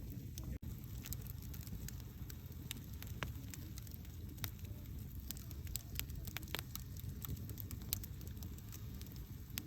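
Wood campfire burning: a steady low rumble of flames with irregular sharp crackles and pops.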